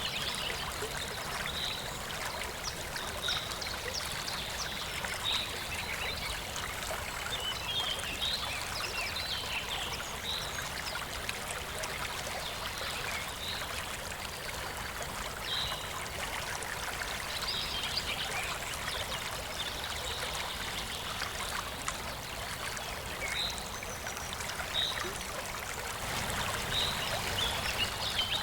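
Waterfall rushing steadily, with birds giving short high chirps every second or two over it.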